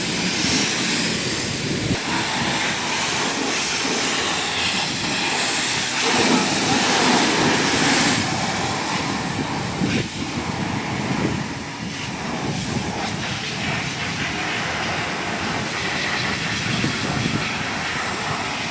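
Pressure-washer water spray hissing steadily against a vehicle, the rushing rising and falling as the jet moves.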